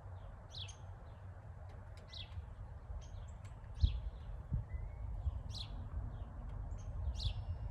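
Small birds chirping: short, high, falling chirps, about one or two a second, over a steady low rumble, with two dull thumps about four seconds in.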